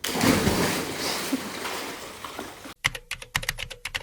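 A rush of noise that fades over two and a half seconds and then cuts off abruptly, giving way to a quick irregular run of sharp clicks like typing on a keyboard.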